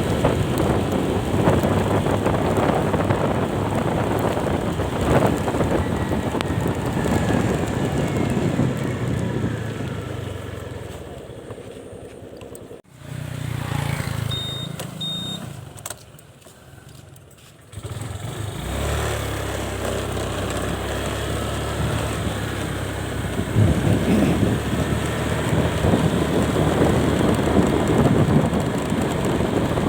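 Vehicle on the move, steady engine, road and wind noise. About ten seconds in it dies down as the vehicle slows. There are two short high beeps in the lull, then the noise builds again as it pulls away.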